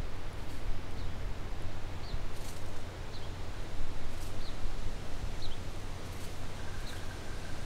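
Rural outdoor ambience: a steady low wind rumble with a bird repeating a short, high chirp about once a second.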